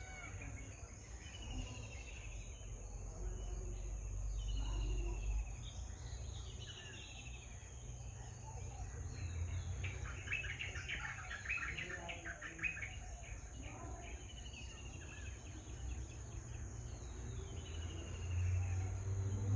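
Birds calling: a short falling chirp phrase repeats every couple of seconds, and a dense bout of rapid chattering comes about ten seconds in. Under it run a steady high insect-like hiss and a low rumble.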